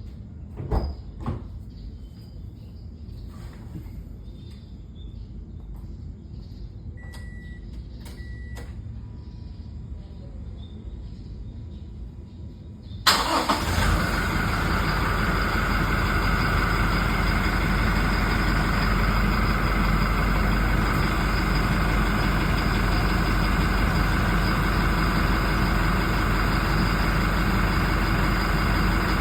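A few clicks and two short beeps, then about 13 seconds in the Toyota Innova's 2GD 2.4-litre four-cylinder turbodiesel starts from cold and settles into a steady idle.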